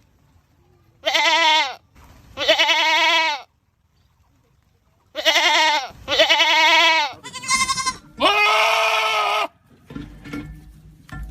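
Goats screaming: six loud, wavering bleats in quick succession, the longest and lowest one last, followed by a low rumble near the end.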